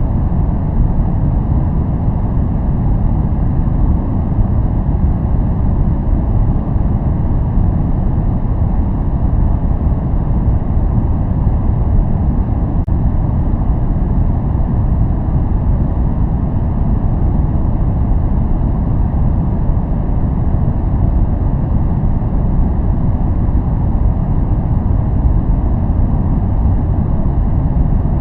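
Steady noise track played for focus, an even rushing sound weighted heavily to the low end, a deep rumble with little hiss on top, unchanging throughout.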